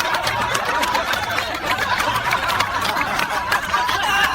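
Crowd laughing, with scattered clapping.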